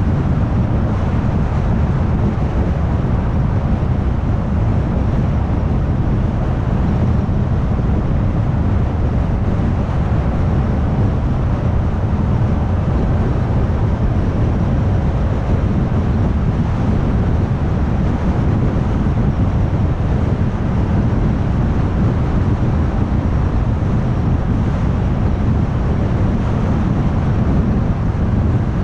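Car cruising at highway speed: steady tyre and road noise with a low drone, unchanging throughout.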